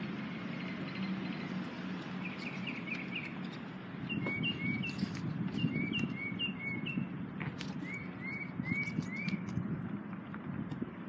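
A songbird chirping in runs of short, rising notes, about two a second, from a couple of seconds in until near the end, over a steady low rumble. A few sharp clicks and taps come from a bike-rack strap hook being worked onto the edge of a car's rear hatch.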